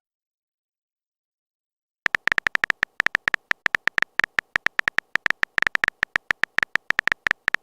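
Silence, then about two seconds in a rapid run of short, crisp phone keyboard tap clicks, roughly eight a second: a smartphone typing sound effect as a text message is typed.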